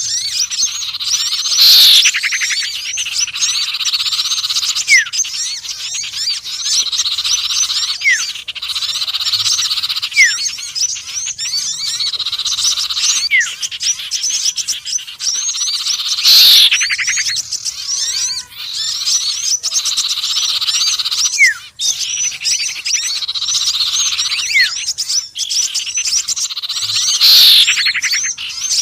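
Bird-lure recording of small songbirds, sirtu, konin and sepah raja combined, chattering densely without a break. Loud downward-sweeping calls come three times, and short rising whistles recur every few seconds.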